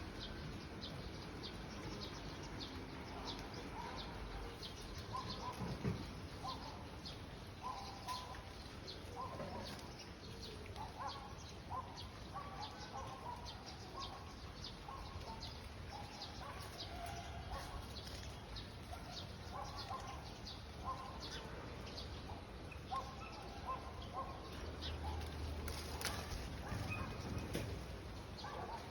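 Several birds chirping and calling after rain, with a steady run of short, high chirps over lower, repeated notes.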